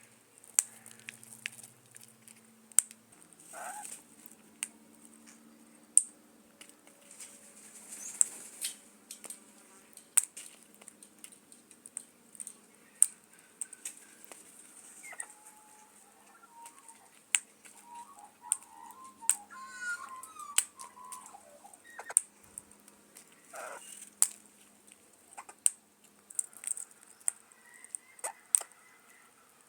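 A bird making many sharp, irregular clicks, with a few short warbling calls, the longest burst about two-thirds of the way in.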